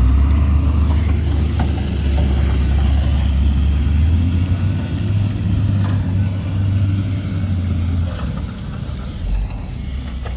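Heavy diesel engine of earthmoving machinery working with a deep, steady rumble, easing off about eight seconds in.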